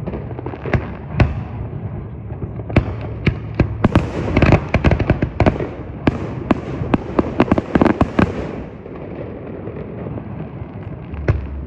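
Fireworks going off: a run of sharp bangs and crackles that thickens into a rapid flurry in the middle, then thins to a few scattered pops near the end, over a steady low rumble.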